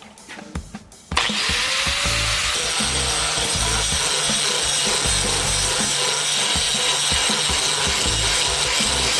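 An electric grinder starts about a second in and then runs steadily against the steel of the spike, a loud even rasp with a high whine over it.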